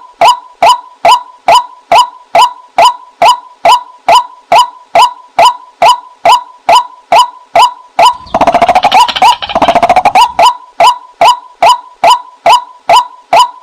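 Female white-breasted waterhen's lure call: a short falling note repeated about three times a second, broken about eight seconds in by two seconds of fast chattering before the steady notes resume.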